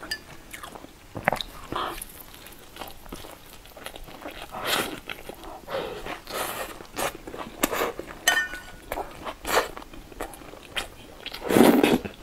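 Close-up eating sounds: a person biting and chewing a flaky fried pastry, in many short, irregular clicks and crackles. Near the end comes a louder, longer noisy sound as a spoonful of the spicy tofu sauce goes into the mouth.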